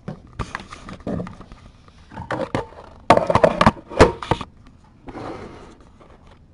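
Cloth rustling and scratching as a blanket is handled, with kittens' claws catching in the fabric. It comes in irregular clicks and rustles, densest about three to four and a half seconds in.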